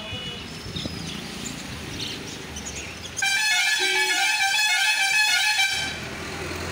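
A loud, multi-tone musical vehicle horn plays a short stepping tune for about two and a half seconds, starting about three seconds in. Faint bird chirps sound around it.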